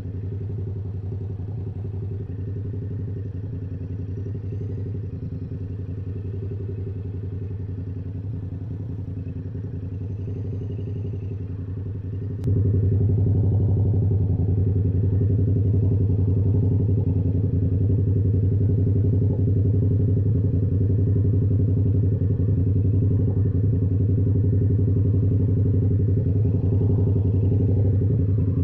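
Yamaha YZF-R7's 689 cc parallel-twin engine idling steadily through an SC-Project exhaust, at an unchanging pitch. About twelve seconds in, just after a faint click, it suddenly becomes louder and stays so.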